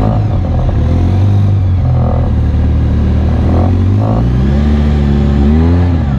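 Off-road UTV engine running steadily under way, rising in pitch about four seconds in, then revving up and down in a few quick swings near the end.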